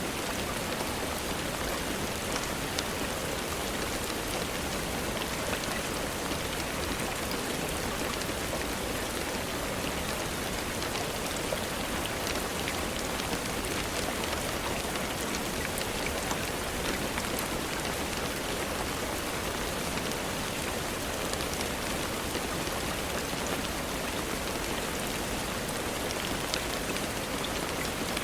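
Steady rainfall: an even hiss with many light drop ticks scattered through it.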